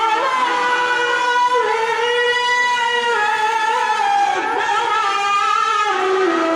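A qari's voice in melodic Qur'an recitation (tilawah), holding a long, high, ornamented phrase whose held notes shift in pitch every second or two.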